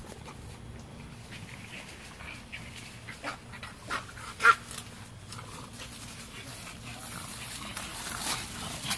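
Boston terrier breathing and snuffling as she noses after a ball through grass and undergrowth. A short sharp pitched sound comes about halfway through, and leaves rustle near the end.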